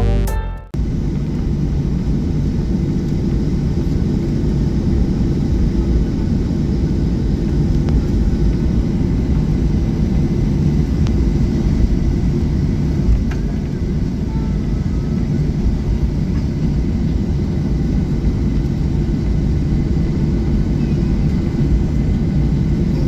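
Steady cabin rumble of a Boeing 737-800 heard from a passenger seat, engine and airflow noise with a faint steady hum, after music cuts off in the first second.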